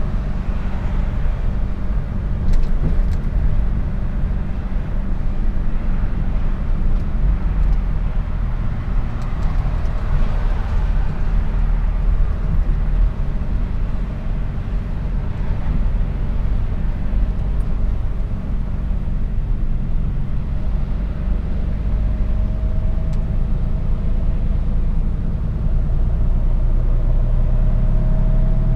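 Mercedes-Benz Actros truck's diesel engine and road noise heard from the cab, a steady low drone while driving, with a faint rising whine near the end.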